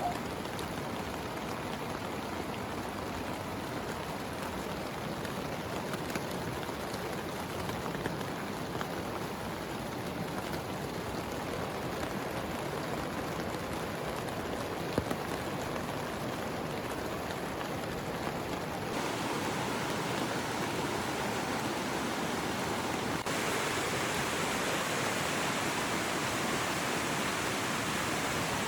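Heavy rain pouring steadily, a dense even hiss that steps up louder and brighter about two-thirds of the way through.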